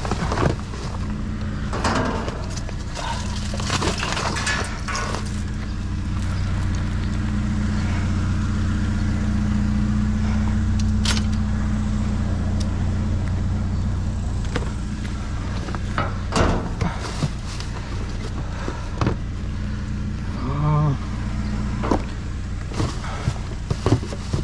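A motor vehicle's engine runs with a steady low hum that swells louder through the middle. Scattered knocks and rustles of items being handled sound over it, coming more often near the end.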